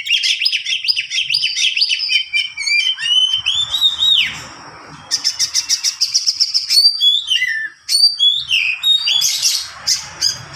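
Oriental magpie-robin (kacer) singing a long unbroken song of fast, varied whistles, trills and chattering notes, the rolling style ("ngerol panjang") kept for tutoring other songbirds. A rising-then-falling whistle comes about four seconds in, followed by a fast even trill.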